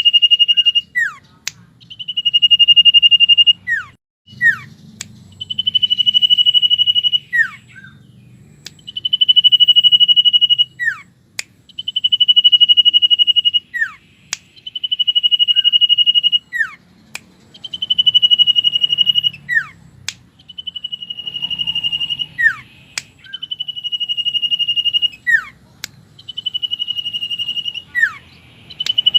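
Common iora (cipow) singing. A long, level, high whistle is held about two seconds and ends in a quick downward slur, repeated about every three seconds.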